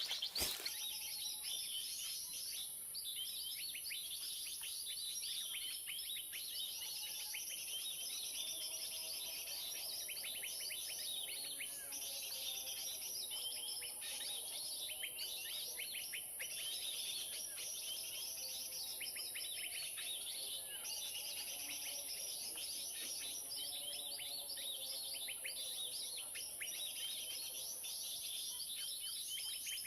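A bird-lure recording of many small birds chattering in a commotion, played back from an MP3 player: dense, rapid chirps and twitters, with a steady high hiss throughout. A wavering lower warble joins in from about eight seconds until near the end.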